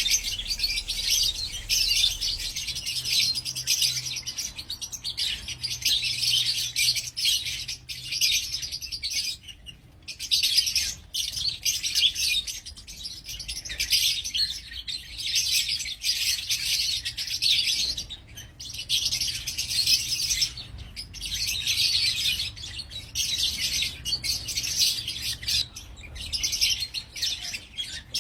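A flock of Fischer's lovebirds chattering in an aviary: dense, continuous high chirping, with brief lulls about ten and eighteen seconds in.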